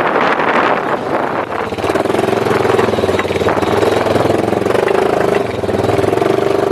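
An engine running at a steady speed, as a steady drone with a fast even pulse. Wind buffets the microphone for the first couple of seconds.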